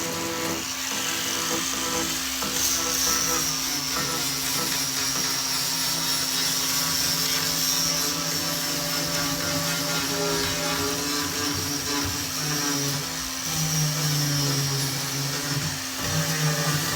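Small electric power tool running steadily with a high, slightly wavering whine, over a constant lower hum.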